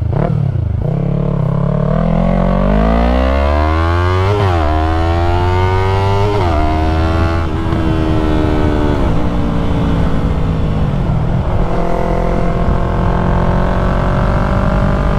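Yamaha MT-03's 321 cc parallel-twin engine through a full aftermarket exhaust, revving up with rising pitch and shifting up twice, about four and a half and six and a half seconds in. It then eases off and holds a steady cruising pitch for the last few seconds.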